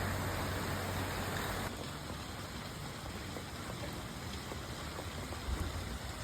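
Heavy rain falling steadily, with water running. For the first second and a half it is louder and joined by a steady low hum, and it drops sharply to a quieter level. There is a brief low thump near the end.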